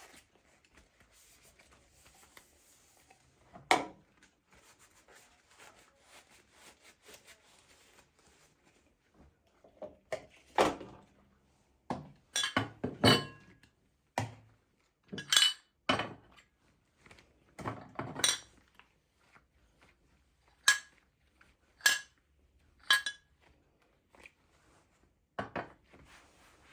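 Dishes and cutlery being handled and set down: a string of sharp clinks and knocks, some ringing briefly like ceramic or glass, after a few seconds of quieter rustling.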